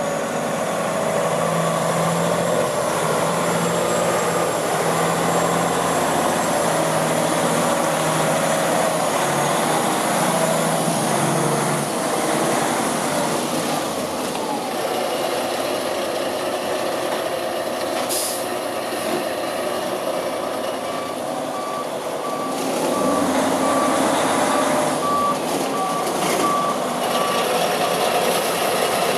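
Heavy diesel truck running, with a backup alarm beeping at a steady on-off rate from about twenty seconds in. A short hiss comes about eighteen seconds in.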